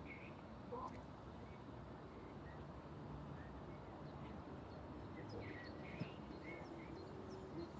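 Outdoor ambience with faint bird chirps: a short call at the start and a cluster of chirps about five to six and a half seconds in, over a steady low hum, with one sharp click near six seconds.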